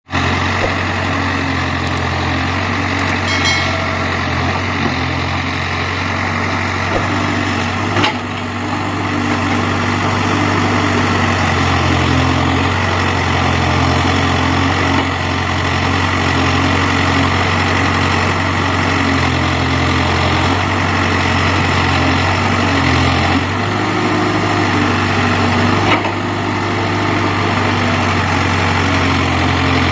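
Diesel engine of a JCB 3DX backhoe loader running steadily, its pitch shifting slightly now and then under load, with a sharp knock about eight seconds in and another later on.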